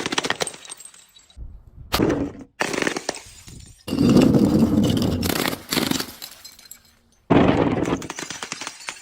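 Brittle things, glass bottles among them, being crushed and breaking: crunching and crackling in several sudden bursts full of sharp snaps. The longest burst lasts about two seconds, starting near the middle.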